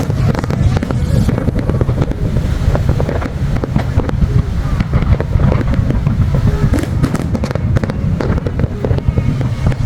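Fireworks display: rapid, overlapping bangs and crackles over a heavy, continuous low rumble.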